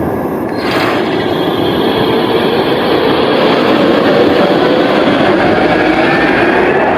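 Electric tram running on street track, with a steady rumble and a motor whine that climbs slowly in pitch as it gathers speed.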